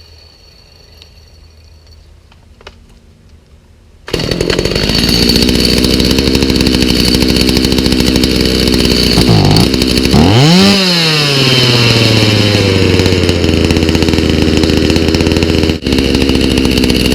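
Stihl MS290 chainsaw's two-stroke engine, running without bar and chain on a newly fitted aftermarket carburetor. It starts abruptly about four seconds in and runs, is revved briefly twice near the middle, with the second rev climbing high and slowly sinking back, and winds down as it is shut off at the end.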